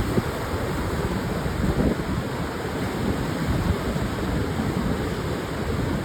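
Pacific surf on a wide sandy beach: a continuous wash of breaking waves, with wind adding a low rumble on the microphone.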